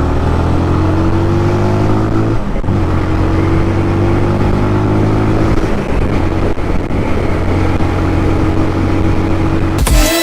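Benelli motorcycle engine running under way, with wind noise over the microphone. The engine note breaks off briefly and picks up again near the start and about two and a half seconds in. Electronic music cuts in right at the end.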